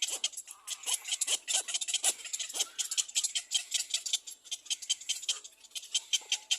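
Little black cormorant calls at the nest: a fast, even run of short, high, clicking chatter, several calls a second.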